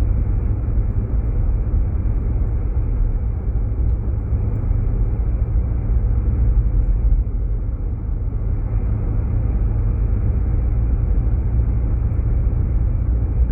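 Steady low rumble of road and engine noise inside a Jeep Grand Cherokee's cabin as it drives along a snowy road.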